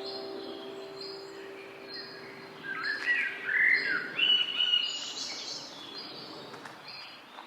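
Birds singing and calling, with a loud burst of chirping calls about three to five seconds in over a background of short, high notes repeated again and again. The tail of a held music chord fades out during the first few seconds.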